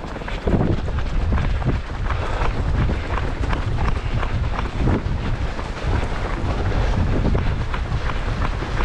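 Strong wind buffeting the microphone: a loud, steady low rumble with irregular gusty thumps, stronger from about half a second in.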